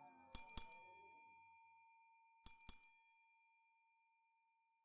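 Bright bell-like chimes struck in two quick pairs, one pair about a third of a second in and another about two and a half seconds in, each ringing on and fading away.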